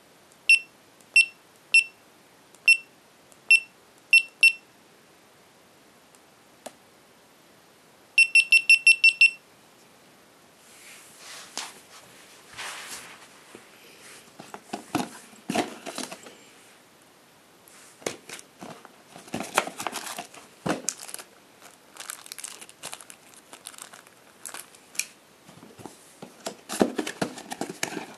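GoPro Hero 3 Black camera beeping as its buttons are pressed: single short beeps for the first few seconds, then a quick run of about seven beeps, the camera's power-off signal. After that comes irregular crinkling and rustling as the packaging is handled.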